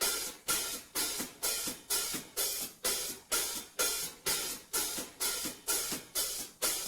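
Drum kit intro in a backing track: a steady run of cymbal or hi-hat strokes, about two a second, each fading quickly, with light drum hits underneath.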